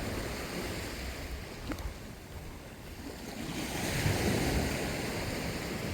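Ocean surf washing in and out, with wind rumbling on the microphone; the wash swells up again about four seconds in.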